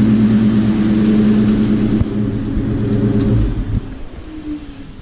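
2003 Ford Mustang GT's 4.6-litre two-valve V8 idling steadily with an exhaust leak at the X-pipe that sealant has not cured, then shut off a little under four seconds in.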